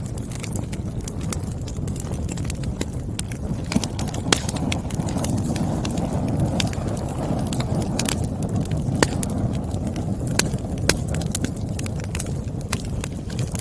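Wood fire crackling: frequent sharp, irregular pops and snaps from burning firewood over a steady low rumble of the flames, which swells a little around the middle.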